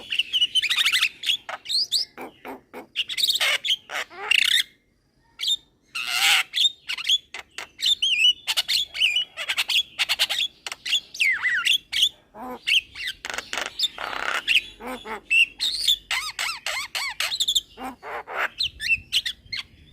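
Young Javan myna (jalak kebo) chattering busily: a rapid mix of clicks, warbling whistles and harsh squawks, with one short pause about five seconds in.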